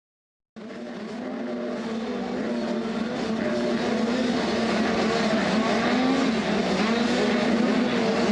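Several 85cc two-stroke motocross bikes racing together, their engines wavering up and down in pitch as they rev. The sound starts abruptly about half a second in and grows louder over the next few seconds.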